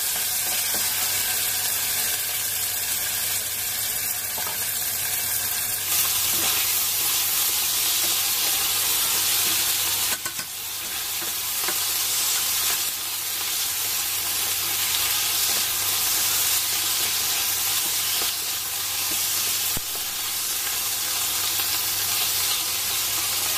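Chicken breast pieces sizzling as they fry in oil in a nonstick wok, stirred and scraped with a wooden spatula. A low steady hum runs underneath.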